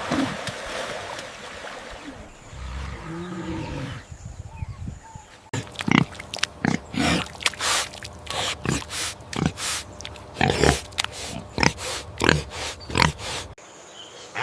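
Animal calls: a faint low drawn-out call, then, after a cut, a long run of short irregular grunts.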